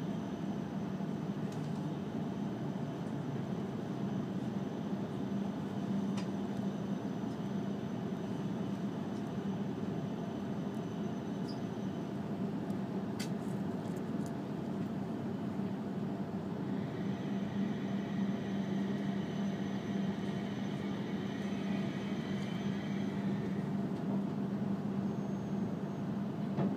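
Passenger-cabin noise of an E5 series Shinkansen running: a steady rumble with a low hum. A faint high whine joins for several seconds about two-thirds of the way through.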